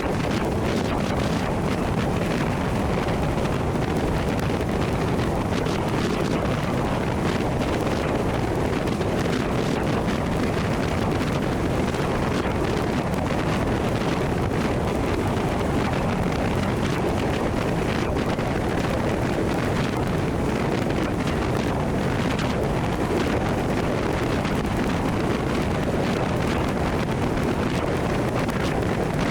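Pressure washer running, its high-pressure jet spraying steadily against brick with a constant rushing hiss over the machine's drone.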